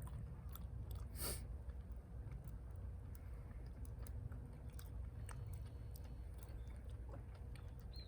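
A person biting into and chewing a bacon-lettuce muffin, with one louder crunching bite about a second in and small clicks of chewing after it.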